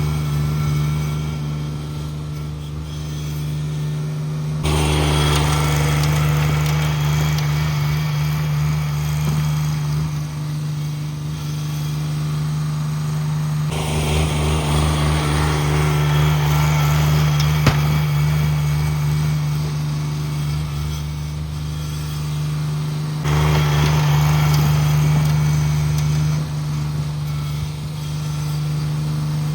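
Cub Cadet 1782 garden tractor's Onan twin-cylinder engine running steadily. Its note grows louder and fuller for stretches of several seconds and eases in between, three times over.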